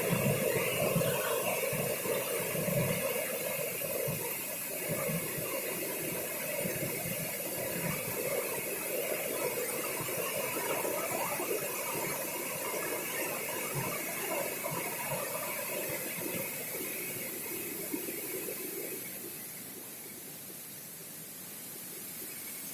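Waterfall rushing steadily, running full after heavy rain, with a steady high tone over the water noise. The sound eases a little near the end.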